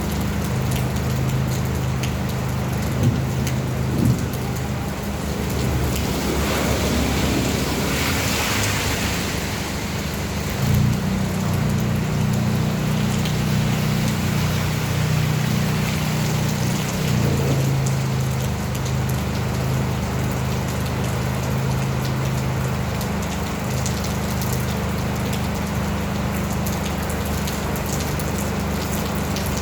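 Steady rain falling, an even hiss, with a low steady hum underneath. About eight seconds in, the hiss swells louder for a few seconds, then settles back.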